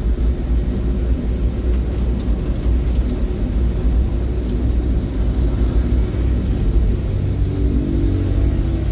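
Steady low rumble of a moving vehicle, with a faint hum rising into it near the end.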